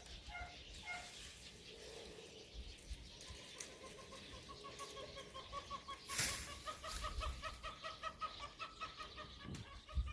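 A bird calling: a few short repeated notes, then a long rapid trill that rises slightly in pitch, with scattered crackles and one sharp snap about six seconds in.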